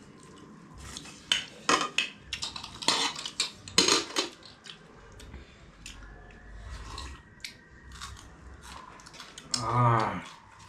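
Clinks, knocks and scrapes of plates and eating utensils during a meal, busiest in the first four seconds, then sparser. A short hummed voice sound comes just before the end.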